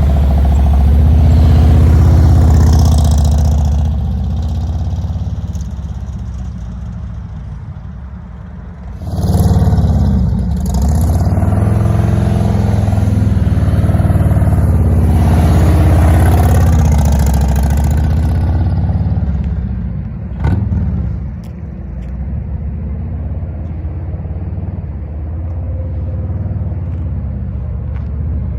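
Motorcycle engine running at low speed, its throttle rising and falling as it rides slow turns. A louder passage starts abruptly about nine seconds in, and there is a single sharp click about twenty seconds in.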